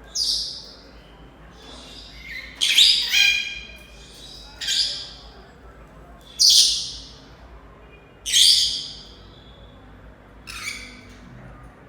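Pet parrots calling: about six short, loud, shrill calls spaced one to two seconds apart, one of them about three seconds in longer and with a clearer whistled pitch.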